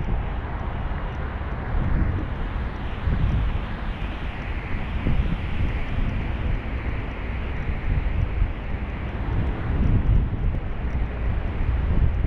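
Wind buffeting the microphone over a steady, distant engine roar that swells and fades again in the middle.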